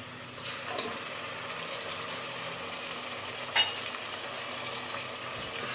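Onions and curry leaves sizzling in hot oil in a pressure cooker while a wet ground masala paste is scraped in with a steel ladle, with a couple of sharp metal taps.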